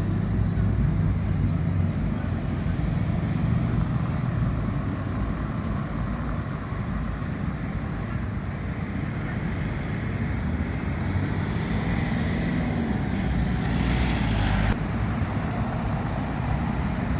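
Town-centre road traffic: vehicles running and passing in a steady low rumble. Near the end a brief hiss cuts off suddenly.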